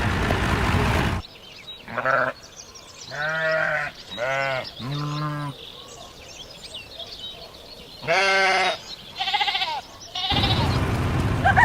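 Sheep bleating: about six bleats, four close together a few seconds in and two more later, with a steady background noise at the start and again near the end.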